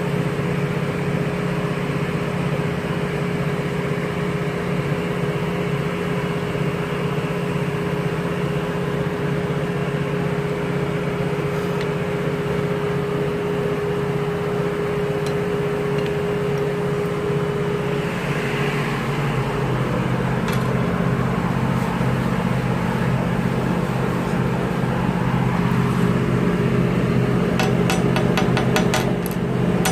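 Steady machine hum, with a quick run of sharp hammer taps near the end as a hammer strikes the opened rotary-engine oil injector.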